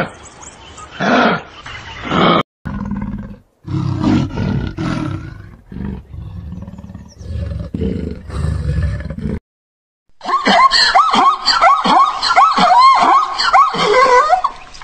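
A run of separate animal calls: three short calls at the start, then a big cat's low, rough growling for several seconds, then, after a brief silence, a fast string of high, yelping barks typical of a zebra herd.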